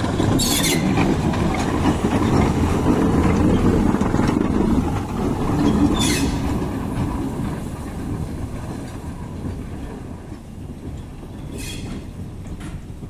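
A heritage railway train running by, its wheels rumbling on the track. Short high-pitched bursts come about half a second in, at about six seconds and near the end. The rumble is loudest in the first half and dies away over the last several seconds.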